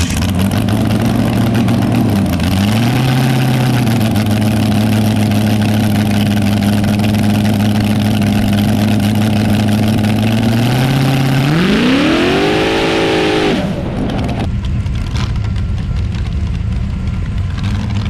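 Drag racing car engine held at a steady high speed for about ten seconds, then revved up in a rising sweep and cut off sharply about fourteen seconds in, dropping back to a lower idle.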